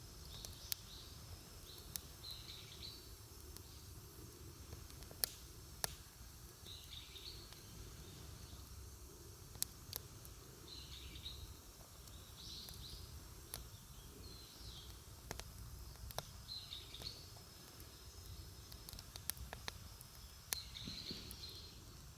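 Wood campfire crackling, with occasional sharp pops scattered through, while a bird calls with short chirps, repeated every second or two.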